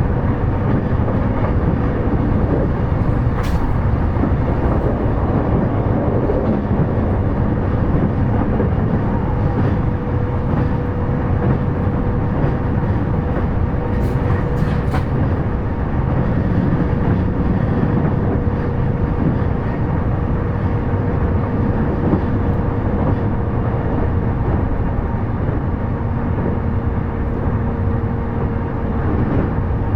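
JR E233 series electric train running at speed between stations: a steady rumble of wheels on rail with a faint steady tone, broken by a few sharp clicks.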